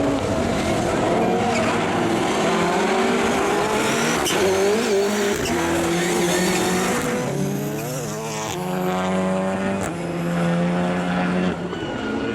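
Rallycross Supercars racing, their engines revving up and down through the gears; one engine note holds steady for a few seconds past the middle, then drops away suddenly.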